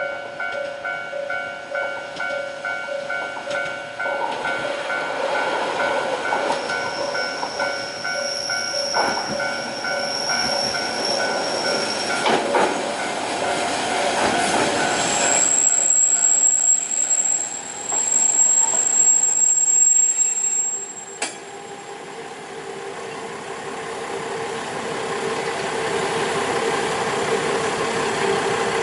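Nagara River Railway diesel railcar running through the station, its wheels squealing in high-pitched whines that are loudest around the middle. About two-thirds of the way in, the noise drops off, and a steady engine hum builds near the end.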